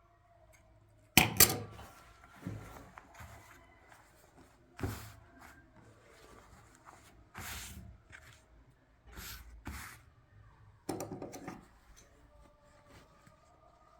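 Irregular knocks and clatter of objects being handled: about eight sharp clacks and thuds spaced one to two seconds apart, the loudest about a second in and another cluster near the end.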